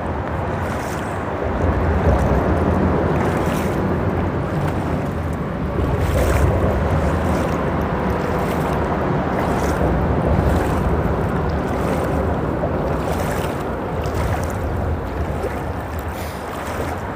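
Steady rush of creek water over a low rumble of freeway traffic overhead, with short splashes here and there.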